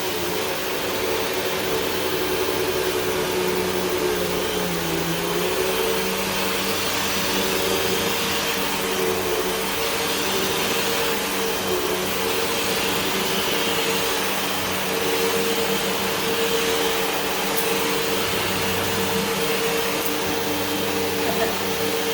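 Hoover WindTunnel 2 Whole House Rewind upright vacuum cleaner running steadily while vacuuming, its motor pitch dipping briefly about four to five seconds in.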